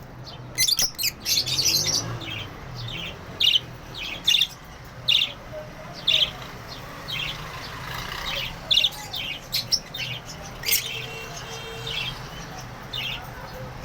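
Budgerigars chirping: many short, sharp chirps at irregular intervals, with a quick run of several close together about a second in.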